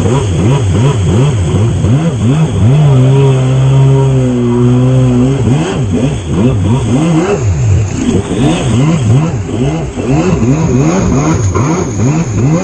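Jet ski engine revving up and down over and over, its pitch dipping and climbing about twice a second. A few seconds in, a steady low tone is held for about two and a half seconds over it.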